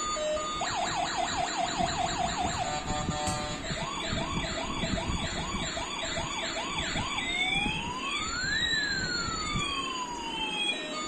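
Toy police car's electronic siren cycling through its patterns: a fast yelp of quick repeated sweeps, a slower warble, then a slow wail rising and falling. There is a single click a few seconds in.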